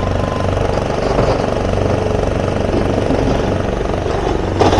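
Heavy diesel engine of an excavator loading a truck with hardcore, running steadily, with a short loud clatter near the end.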